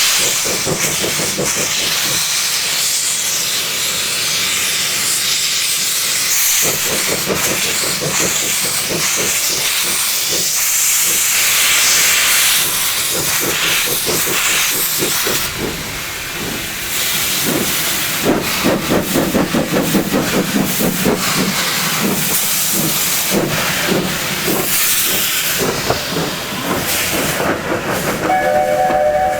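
Steam locomotive working: a loud, steady hiss of escaping steam with fast, regular exhaust beats. Its steam whistle starts to blow near the end.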